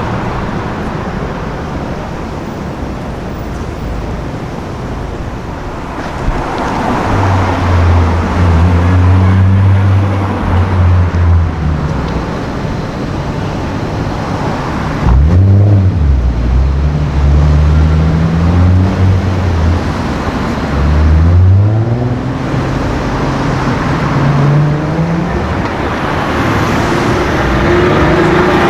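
Street traffic, then a performance car's engine running loud and low, its pitch climbing and dropping several times as it revs and accelerates.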